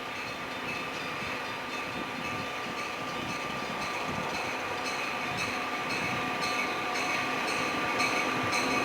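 Train approaching and growing louder, with a steady high-pitched squeal and, from about halfway through, a regular clicking about twice a second.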